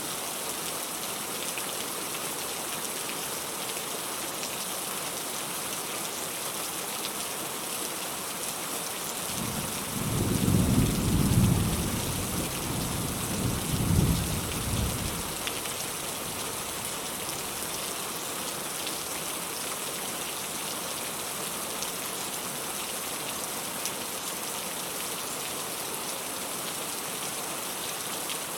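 Steady rain falling, with a roll of distant thunder a third of the way in that rumbles low for about five seconds, swelling twice before it fades.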